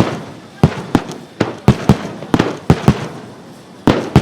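Wide star mine fireworks barrage: aerial shells bursting in quick, irregular succession, about a dozen loud booms in four seconds, each trailing off in a reverberating echo.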